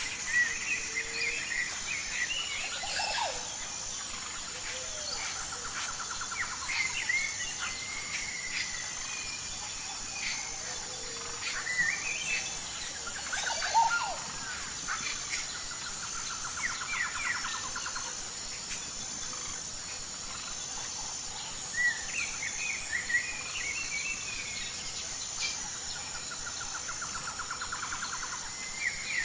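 Several birds chirping and calling in short, scattered phrases, with a fast trill that recurs about every ten seconds, over a steady high-pitched insect drone.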